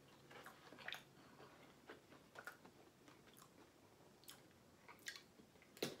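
Faint chewing: soft wet mouth clicks of someone eating, scattered a few times, with a sharper click just before the end.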